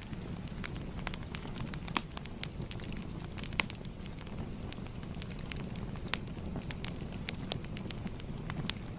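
Crackling fire: a steady low rumble of burning with sharp pops scattered irregularly throughout, a few louder ones about two and three and a half seconds in.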